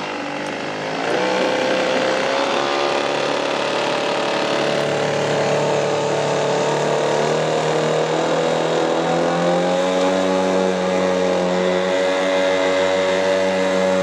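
Small 2.4 horsepower Forvard brushcutter engine, converted into a boat outboard motor, running. It revs up about a second in, then holds a steady high-pitched run, rising a little further about two-thirds of the way through.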